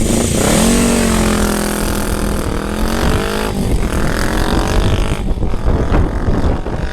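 Suzuki GS450 parallel-twin motorcycle engine revving through a custom-built exhaust. It is blipped up and back down twice, then runs more roughly.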